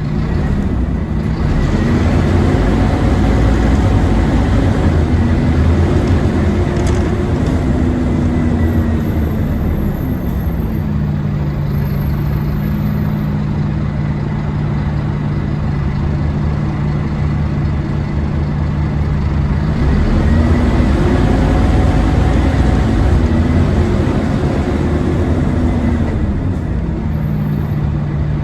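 Scania OmniCity double-decker bus engine and driveline rising in pitch as it pulls away, then dropping back to a steady idle about ten seconds in; it pulls away again with the same rising whine and settles back to idle near the end. This bus is a 'hoover', known for a pretty loud, vacuum-cleaner-like whine.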